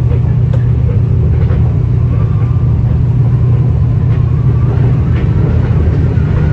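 Steady low rumble of a passenger train running, heard from inside the carriage, with faint clicks about once a second.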